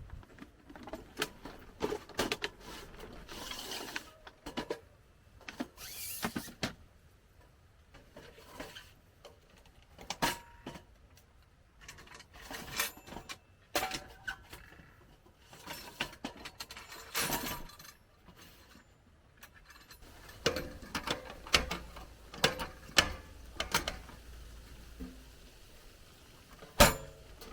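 Objects being handled close by: irregular sharp clicks and knocks with short bursts of rustling, and no steady rhythm.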